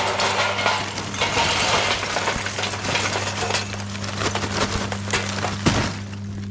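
Dense clattering, clinking and cracking as a metal charcoal grill (mangal) is set up and loaded for lighting.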